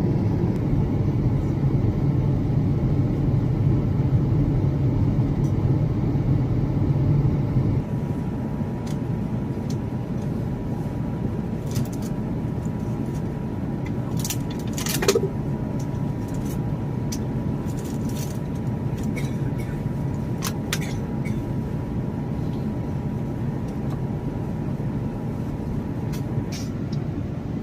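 Airbus A350 cabin noise on approach: a steady low rumble of engines and airflow that drops in level about eight seconds in. Scattered faint clicks and one short knock about halfway through sit over it.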